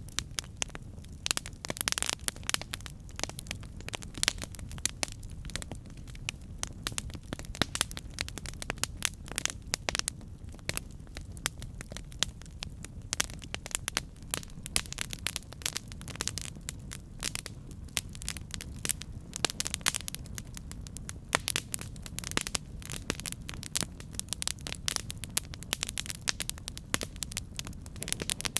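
Campfire crackling: wood burning with frequent irregular sharp pops and snaps over a steady low rumble of flame.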